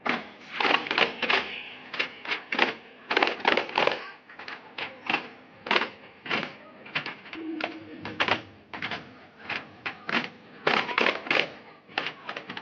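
Daff frame drums beaten by hand in a fast, driving rhythm of sharp slaps, struck in quick clusters of two and three.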